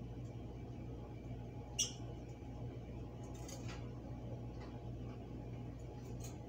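Lovebirds giving short, high chirps: one sharp chirp about two seconds in, the loudest sound, and a few fainter ones later, over a steady low hum.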